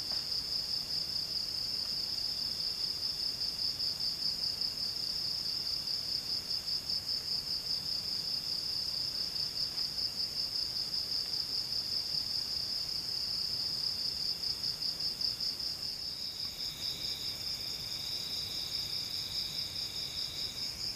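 Insects chirring in the forest, a steady, rapidly pulsing high trill. A second, slightly lower trill joins in about three-quarters of the way through.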